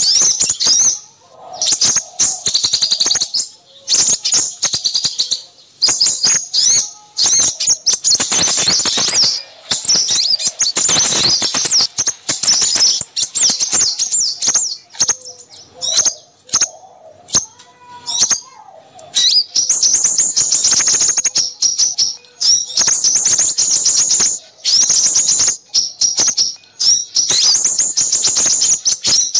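Busy chorus of small songbirds chirping and twittering in rapid high trills, in runs of a few seconds with short breaks, with a few lower notes in between: a lure recording of noisy small birds used to attract crimson sunbirds.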